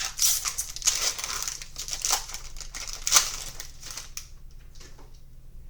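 Foil trading-card pack being torn open and crinkled by hand: a run of sharp crackles and rips for about four seconds, then it dies away.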